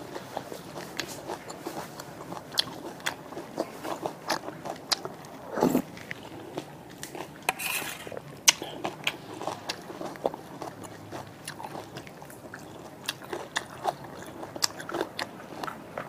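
Close-miked chewing and biting of spicy soup vegetables, with crisp clicks and crunches throughout, and a spoon scraping the metal serving tray.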